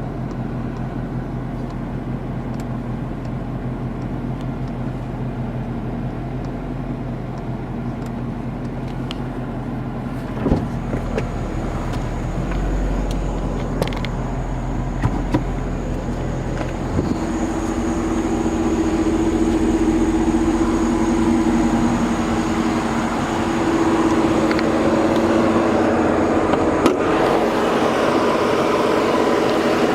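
Edelbrock E-Force supercharged 6.4-litre (392) Hemi V8 of a 2012 Dodge Challenger SRT8 idling steadily, getting louder in the second half, with a few short knocks along the way.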